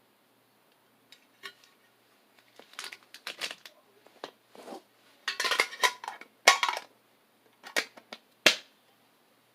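Foil Pokémon booster pack wrapper crinkling and crackling in irregular bursts as it is handled and torn open, loudest about halfway through with a sharp crackle near the end.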